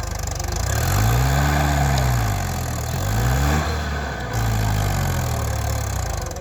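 Mahindra tractor's diesel engine revving, its pitch rising and falling a few times as the throttle is opened and eased off.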